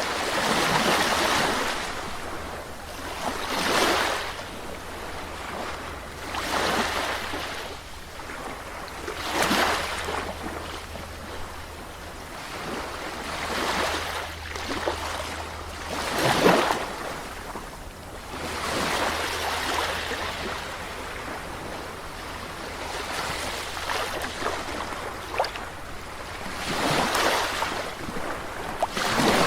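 Calm sea waves breaking and washing in, the surf swelling and fading every two to three seconds over a steady low rumble, with one louder break about sixteen seconds in.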